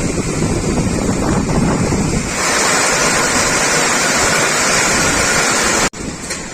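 Heavy rain pouring down, a loud steady hiss that grows fuller about two seconds in. It cuts off abruptly near the end and comes back quieter.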